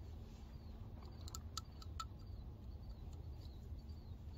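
Faint, repeated high chirps of a small bird or insect in the field, a few times a second, with a handful of sharp ticks about a second and a half in, over a steady low rumble. No shot is fired.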